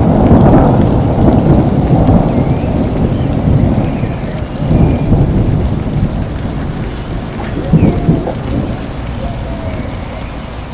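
Thunder rumbling over steady heavy rain. The rumble is loudest at the start, swells again briefly about halfway and once more near the end, then dies away into the rain.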